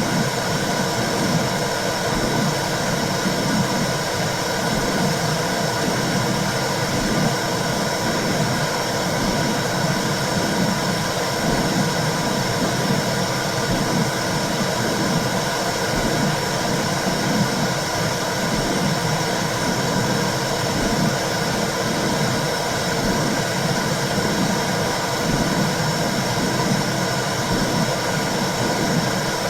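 Womb sound for soothing a baby: a steady rushing noise with a low whoosh that pulses unevenly underneath, unchanging throughout.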